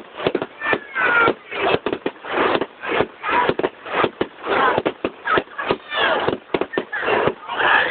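Fireworks going off in a rapid, irregular string of bangs and crackles, with the voices of onlookers underneath.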